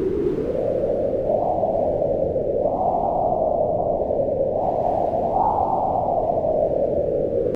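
Wind blowing steadily: a low rushing noise that swells up in pitch and falls back a few times, in slow gusts.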